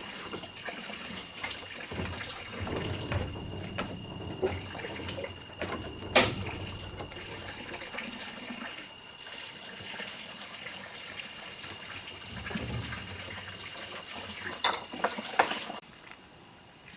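Water splashing and sloshing, broken by a few sharp knocks, the loudest about six seconds in, with a thin steady high tone running underneath.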